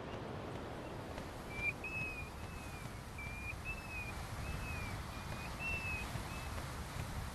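A bird calling: a run of about ten short, thin whistled notes, each slightly arched in pitch, starting about a second and a half in. Under it is a steady low outdoor rumble.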